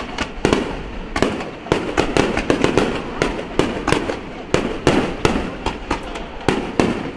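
Fireworks display: aerial shells bursting in quick, irregular succession, several sharp bangs a second.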